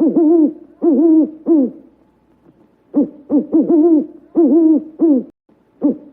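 Owl hooting: phrases of several short hoots, each phrase lasting about two seconds, repeated about every three seconds.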